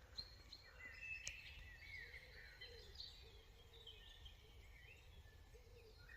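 Faint birdsong: small birds chirping and warbling, with short gliding notes, over a low steady outdoor hiss.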